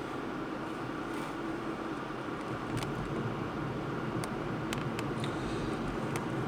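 Steady road and engine noise of a car driving, with a few faint scattered ticks.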